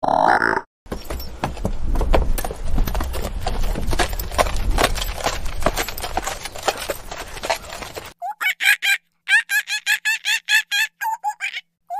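A short grunting call, then horse hooves clopping amid rough, noisy sound for about seven seconds, then a chicken clucking in quick repeated calls from about eight seconds in.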